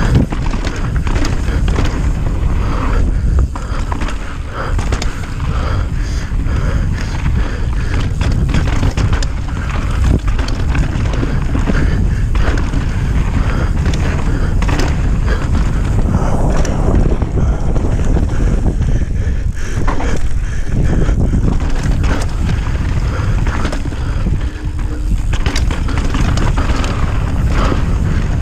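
Mountain bike riding fast down a dirt trail: steady rushing wind noise on the microphone, with tyre noise and frequent rattles and knocks as the bike goes over rough ground.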